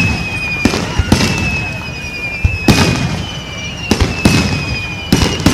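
Fireworks bursting in a display: about eight sharp bangs, several in quick pairs, roughly every second or so.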